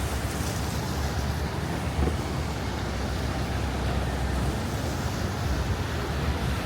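Steady city traffic noise with a low rumble of wind on the microphone, and a brief knock about two seconds in.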